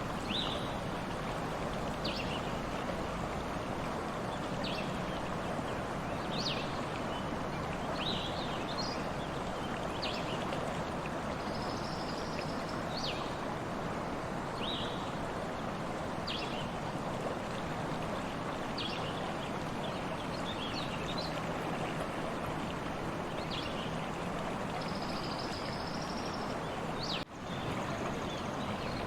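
A stream running steadily, with birds chirping in short high calls every second or two and a couple of longer high trills. The sound dips out briefly near the end.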